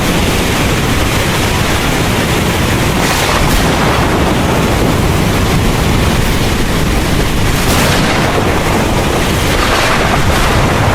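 Heavy rain falling hard with a continuous low thunder rumble under it. The hiss of the rain swells briefly three times: about 3 s in, about 8 s in and near the end.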